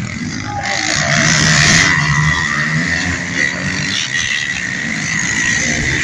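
Motocross dirt bike engines running and revving on the track, with a steady high-pitched hiss throughout; loudest about two seconds in.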